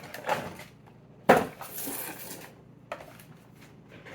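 Cardboard box and packaging being handled: a sharp knock about a second in, followed by a brief rustle.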